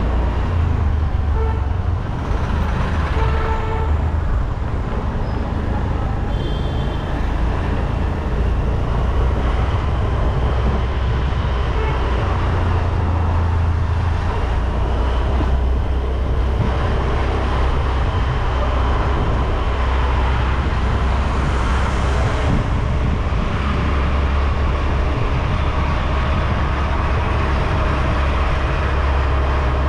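Road traffic noise with a steady low rumble, and a few short horn toots in the first several seconds.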